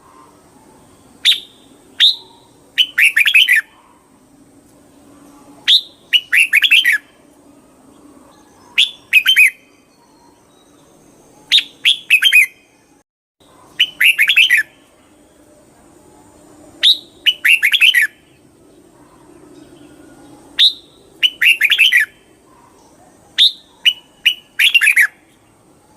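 Red-whiskered bulbul singing: about a dozen short, bright whistled phrases, each under a second and often led by a single higher note, repeated every two to three seconds with short pauses between.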